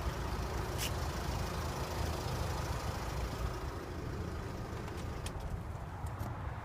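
Skoda Octavia vRS 2-litre diesel engine running steadily at an even pitch, not being revved.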